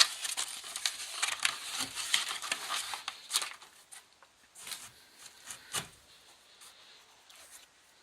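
Irregular clicking and rustling, dense for about the first half, then a few scattered clicks.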